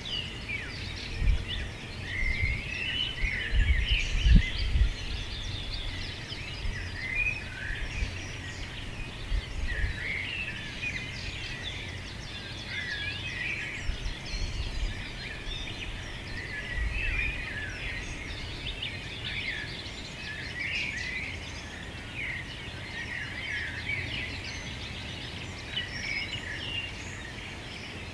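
Chorus of many small birds singing and chirping at once, with overlapping high calls throughout. Brief low rumbles sound underneath, strongest in the first few seconds.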